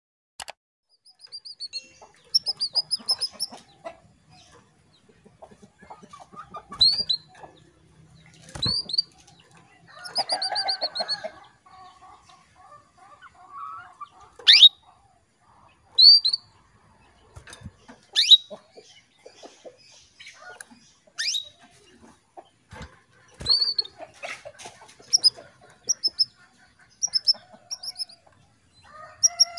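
Female canary calling to a male: short, sharp high chirps and quick little trill runs, irregularly spaced, with some wing fluttering in between.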